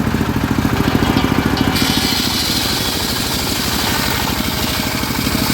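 The engine of a homemade circular-saw rig runs steadily with an even, fast pulsing. About two seconds in, a brighter hiss joins it.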